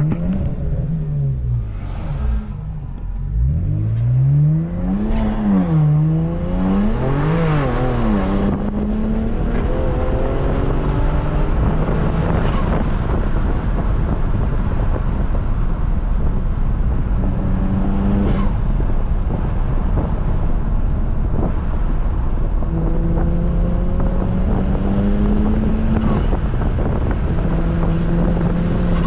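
BMW 335i's twin-turbo N54 inline-six accelerating hard: the engine pitch climbs and drops twice in the first several seconds as it shifts, then the car cruises with a steady engine note under loud road noise.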